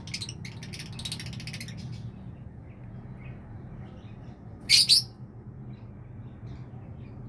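Small bird calling: a rapid run of high chirps in the first two seconds, then a loud, sharp double call about five seconds in, over a low steady hum.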